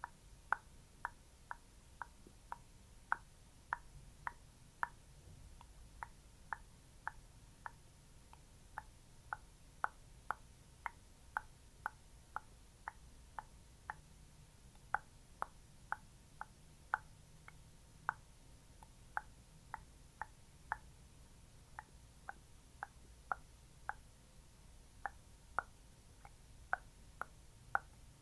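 Short, sticky pops repeated about two times a second, the tacky tapping and patting sounds of a skin-care ASMR.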